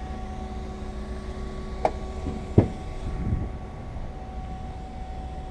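A steady mechanical hum with a constant tone, broken by two sharp knocks a little under a second apart, the second louder, followed by a brief softer rumble.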